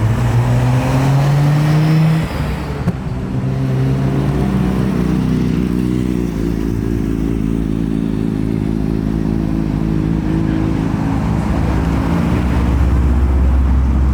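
A loud performance-car engine accelerating: its pitch climbs over the first two seconds, dips briefly as it shifts, climbs again, then settles into a steady drone with a heavier low rumble near the end.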